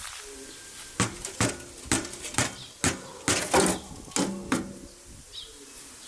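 Split firewood pieces knocking hollowly against each other and the wooden box as they are stacked: about ten irregular knocks over three or four seconds, some with a short ring. A bird chirps briefly near the end.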